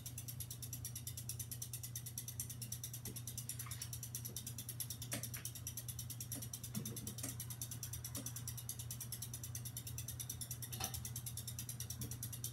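GEV ceiling fan running on medium speed: a steady motor hum with a fast, even ticking and a few faint clicks.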